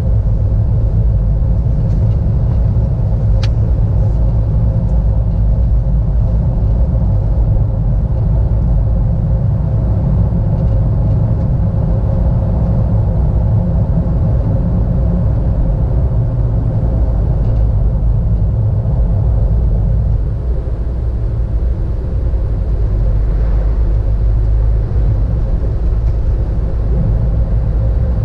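Car driving along a road, heard from the vehicle-mounted camera: a steady low rumble of engine and tyre noise with a faint steady hum. There is one brief click about three and a half seconds in.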